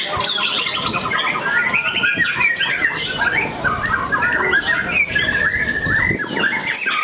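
Several white-rumped shamas (murai batu) singing over one another: a dense mix of whistles, chirps and fast repeated-note trills.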